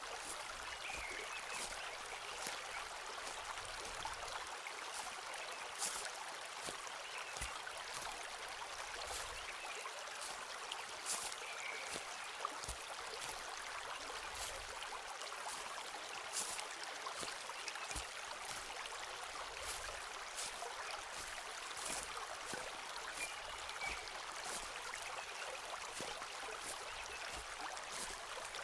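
Footsteps on a forest floor, short crisp crackles of leaves and twigs at an uneven pace, over the steady rush of a stream.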